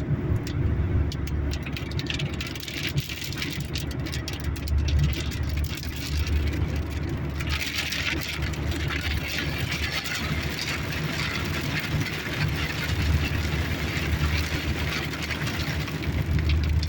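Rain on a car's roof and windscreen, heard from inside the cabin over the low hum of the idling engine. Scattered drops at first, the rain turns to a heavier hiss about seven seconds in.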